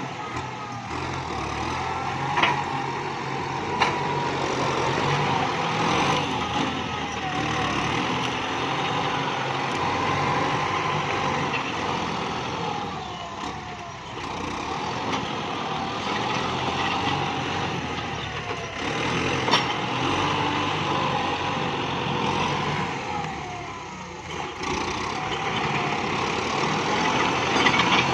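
Kubota MU5702 tractor's diesel engine running under varying load, its pitch and loudness rising and falling as it works, with a few sharp cracks or knocks standing out.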